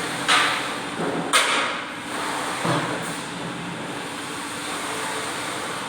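Metal workshop noise: three short knocks or clanks about a second apart, followed by a steady machine hum.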